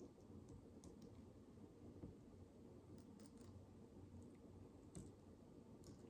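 Micro building bricks being handled and pressed together: a handful of faint, irregular small plastic clicks over a quiet low room hum.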